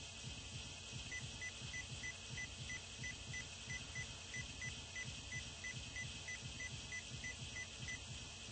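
An electronic beeper sounding short, even beeps about three times a second. It starts about a second in and stops near the end, over a steady hiss and a low rumble.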